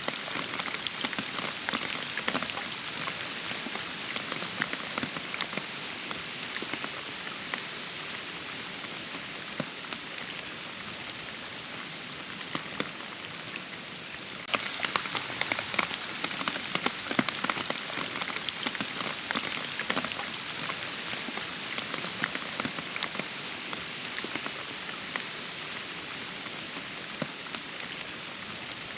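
Steady rain falling, a constant hiss dotted with many distinct close drop hits. About halfway through it steps up suddenly and becomes louder and denser.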